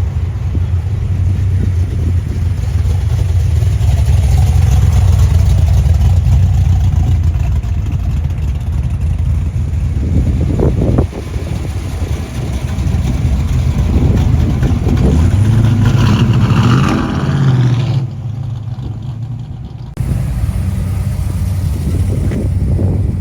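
Car engine running with a heavy low rumble, its pitch rising as it revs about two-thirds of the way in, then the sound changes abruptly.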